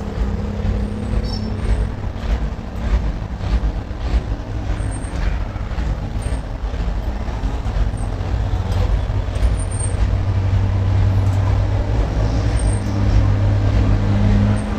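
Hino five-cylinder diesel truck engine running steadily, growing louder in the last few seconds.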